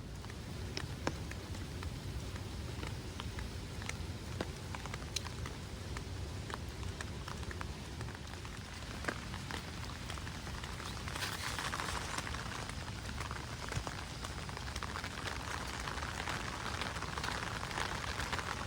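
Rain falling steadily, with scattered sharp ticks of individual drops; the rain hiss grows louder about eleven seconds in.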